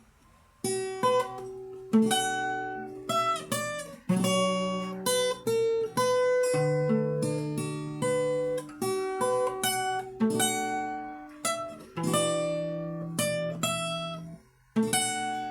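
Solo acoustic guitar fingerstyle playing: plucked notes and chords ringing over a bass line, in short phrases with brief gaps.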